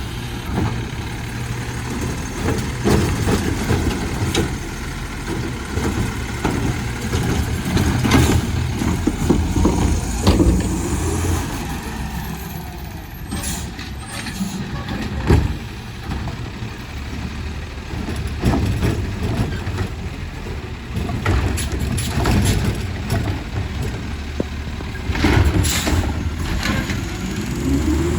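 Garbage truck's engine running steadily, with scattered clanks and knocks and a couple of sharp air-brake hisses.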